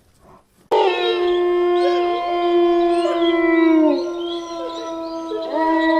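A chorus of howls from several canines, starting suddenly about a second in: long held notes at different pitches overlapping, some sliding down in pitch as they end, with a fresh howl rising in near the end.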